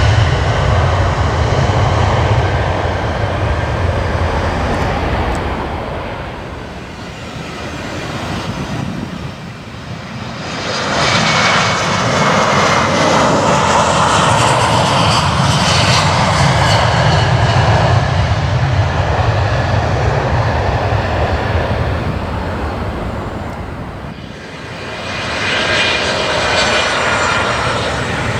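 Jet aircraft engines running loud, the noise swelling and easing twice, with a high engine whine gliding slightly down in pitch as it builds again.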